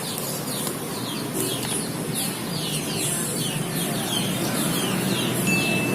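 Birds chirping in short falling notes, about two or three a second, over a low steady rumble.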